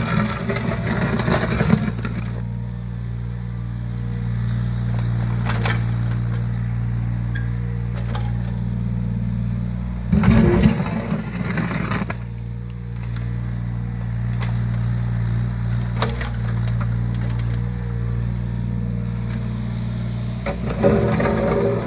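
Yanmar ViO17 mini excavator's small three-cylinder diesel engine running steadily. It gets louder and rougher during the first couple of seconds, again about halfway through, and again near the end.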